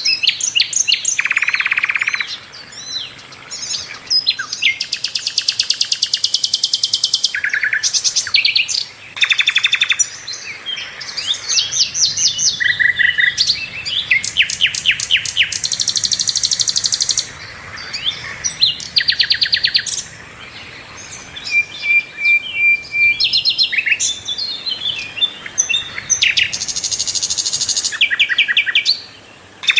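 Sikatan londo flycatcher singing in full voice: a fast, varied string of high chirps and rapid buzzy trills, broken by a few brief pauses.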